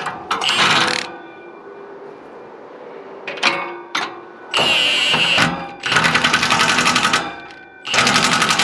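Impact wrench driving bolts down in four hammering bursts, each about a second long, with a couple of short clicks in between.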